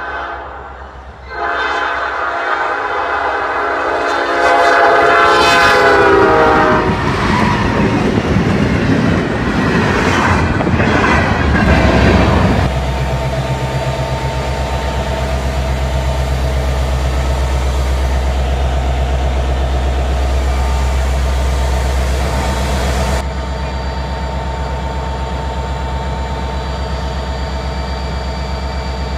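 Union Pacific diesel locomotive's air horn blowing a long chord as the train approaches, dropping in pitch as it reaches the camera. The locomotives then pass close by in a loud rush of engine and wheel noise, which settles about twelve seconds in to a steady low diesel engine drone.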